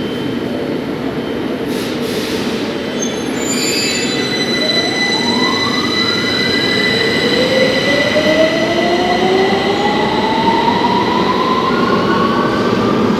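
A London Underground Victoria Line 2009 Stock train pulling out of the platform. Its traction motors give several rising whines as it gathers speed, over the rumble of the wheels on the rails and a steady high whistle.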